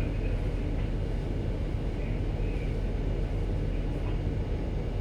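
Steady low rumble of a ship's engines and machinery during berthing, even throughout with no sharp events.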